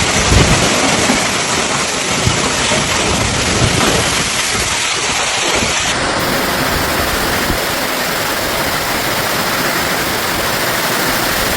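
Heavy thunderstorm rain pouring down, a dense steady rush with a few low gusty thuds in the first second; the rush changes character abruptly about halfway through.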